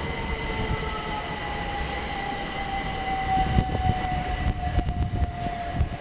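Class 375 Electrostar electric train's traction motors whining, the pitch falling steadily as the train slows, over a rolling rumble. Sharp clicks of the wheels over the rail joints come in from about halfway.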